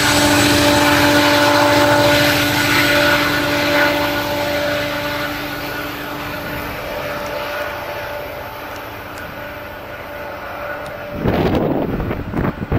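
Union Pacific diesel freight locomotives running past and away, a steady engine drone with a few held whining tones over the rumble of the train, fading as it recedes. About eleven seconds in it cuts to wind buffeting the microphone.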